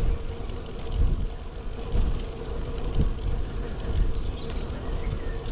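Wind rushing over an action camera's microphone on a moving road bike, with tyre rumble from the road, swelling about once a second. A faint steady hum runs underneath.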